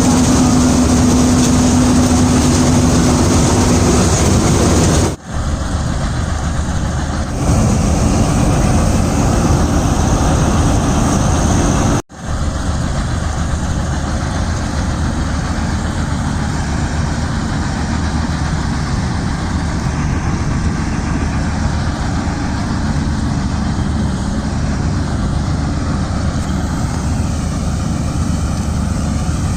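Vishal 435 combine harvester running steadily, its engine and machinery making a continuous dense mechanical noise. There are two sudden brief gaps, about five and twelve seconds in.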